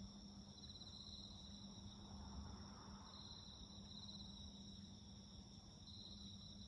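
Faint chorus of crickets and other insects: a steady high-pitched trill runs throughout, and a pulsed trill comes in three times. A low hum lies underneath, and a soft low rumble swells and fades about two seconds in.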